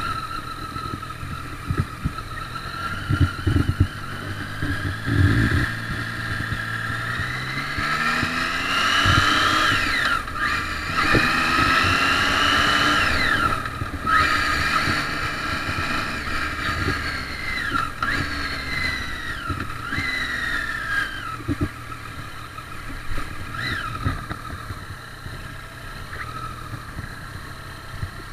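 Triumph Street Triple's inline three-cylinder engine accelerating through the gears, its pitch climbing and dropping back at each upshift, loudest about a third of the way in. Later come shorter rises and falls, and it gets quieter near the end.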